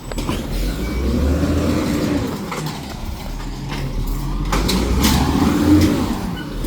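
Garbage truck's diesel engine revving hard twice, each time rising and then easing back down, with a few sharp knocks in between.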